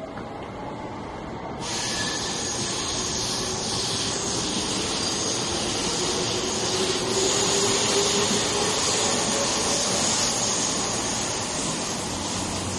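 Electric commuter train running on the track, a steady rushing noise with a slowly rising motor whine.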